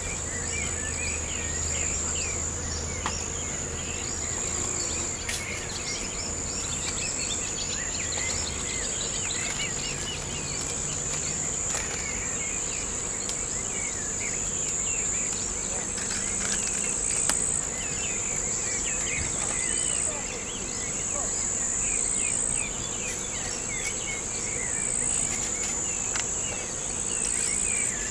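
Steady high-pitched insect chorus, typical of crickets, with many short scattered chirps underneath. A faint low hum fades out about eight seconds in.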